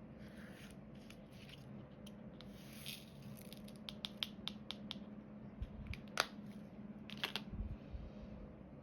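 Diamond painting handwork: light sharp plastic clicks and taps, the loudest a little after six seconds in, between short stretches of scratchy rustling and a couple of dull thumps, over a steady low hum.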